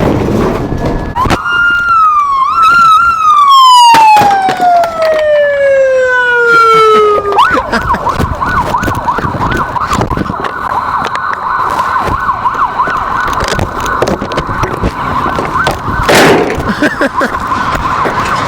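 A siren: a held tone that slides slowly down in pitch over a few seconds, then a fast warbling wail that keeps going. A single sharp knock cuts through it about sixteen seconds in.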